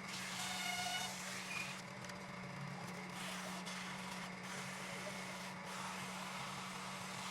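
Wood lathe running with a steady motor hum under the hiss of a tool cutting the spinning wood, with a brief squeal about half a second in.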